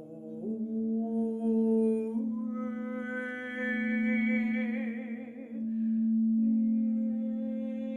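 A woman's voice humming long, wavering tones that change pitch three times, over a steady drone that rings like a singing bowl.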